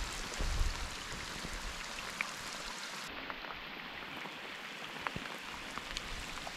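Rain coming down steadily: an even hiss with a few sharp ticks scattered through it.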